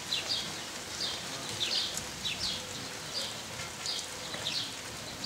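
Small birds chirping: short, falling chirps repeating about three times a second, over light outdoor background hiss.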